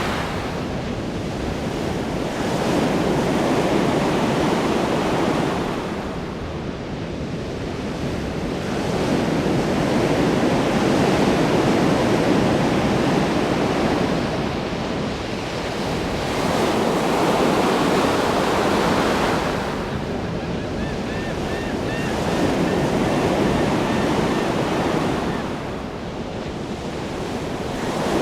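Ocean waves breaking and washing on a shore, swelling and fading in slow surges about every six to seven seconds.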